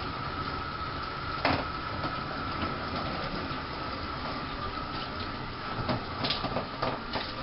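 A machine running with a steady whir and a constant high tone, with a sharp knock about a second and a half in and a string of knocks and clatters near the end.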